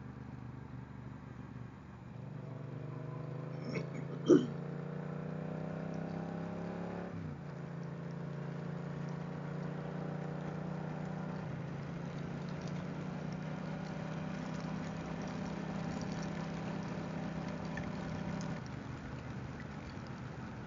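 Motorcycle engine pulling out of a corner, its pitch rising steadily, then dropping suddenly at a gear shift about seven seconds in and running steadily at cruising speed. A brief sharp click about four seconds in.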